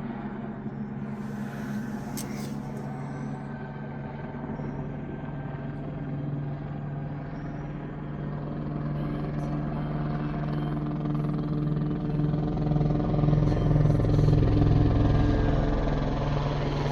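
Police helicopter flying low overhead: a steady rotor and engine drone that grows louder as it comes closer. It is loudest about three-quarters of the way through, where it pulses, then eases slightly.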